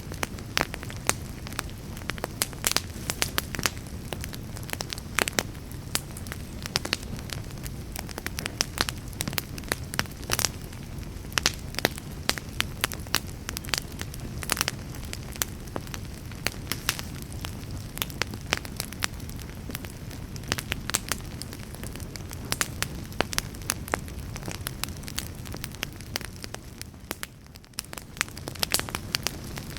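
Wood logs burning in a fireplace: a steady low rush of flame with frequent sharp crackles and pops at irregular intervals, dipping briefly quieter near the end.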